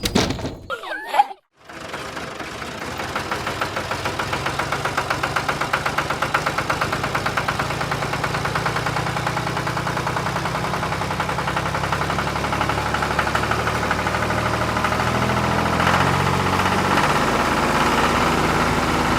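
Tractor engine running at a steady chug with an even beat, after a brief sweeping sound and a short gap near the start.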